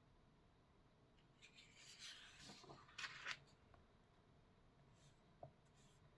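Faint dry rubbing and scratching on paper lasting about two seconds, strongest near the middle, followed by a single small tap.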